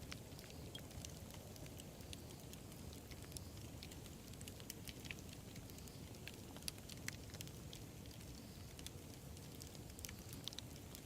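Wood campfire burning: a low steady rumble with frequent small, sharp crackles and pops scattered irregularly throughout.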